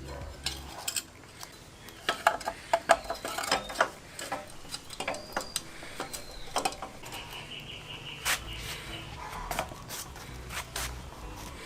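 Hand work on a motorcycle front fork: a run of sharp metal clicks, taps and scraping as the fork parts and a pulling wire are handled and fitted, busiest a couple of seconds in.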